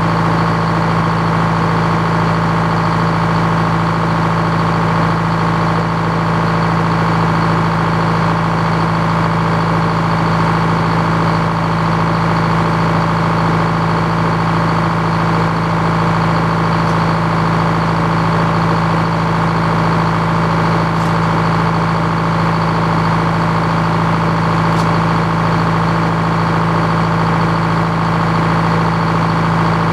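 The engine powering an antique Frick sawmill, running at a steady, even speed.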